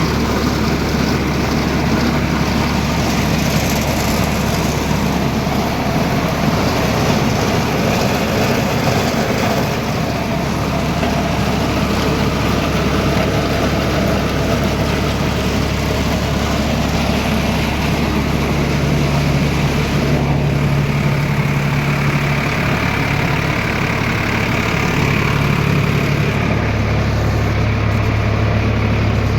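Diesel tractor engine running steadily while it powers a rice mill. A higher steady hum joins about two-thirds of the way through.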